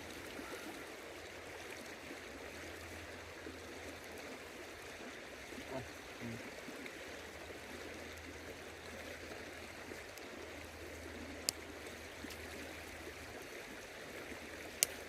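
River water flowing with a steady rushing hiss. Two sharp clicks stand out, one past the middle and one near the end.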